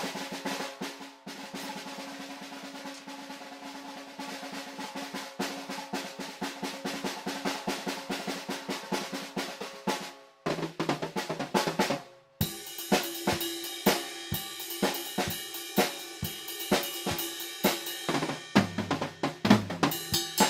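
Acoustic drum kit played freely. For the first ten seconds or so it is a fast, dense roll with a steady ring. After two short breaks it moves to separate beats on the drums with cymbals.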